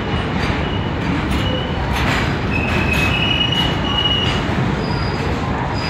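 A long goods train of covered wagons rolling slowly past, with a steady low rumble and irregular clicks and clanks from the wheels. Thin high-pitched wheel squeals come in briefly, the longest lasting about a second and a half near the middle.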